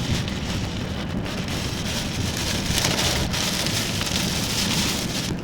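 Steady rain falling on a moving car, heard from inside the cabin, over the low rumble of the car on the wet road.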